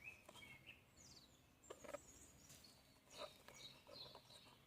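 Near silence: faint birds chirping in the background, with a few faint clicks.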